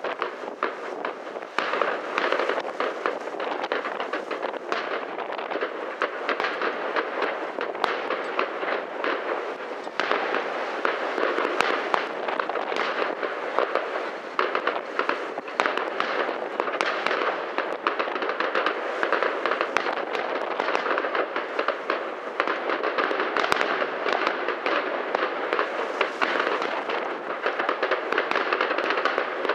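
Professional fireworks display: aerial shells bursting one after another amid a dense, continuous crackle, a little louder from about ten seconds in.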